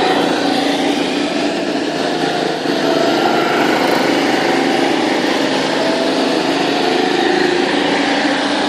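Go-kart's small engine running, its pitch drifting up and down a little as the throttle changes.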